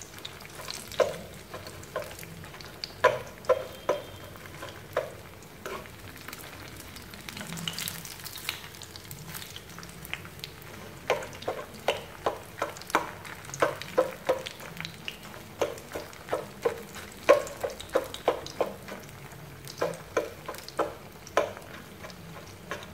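Tofu-skin (yuba) sheets frying in hot oil in a shallow pan, a steady sizzle. Over it come many short, sharp clicks as chopsticks and a fork prod and turn the sheets against the pan, sparse at first and several a second through the second half.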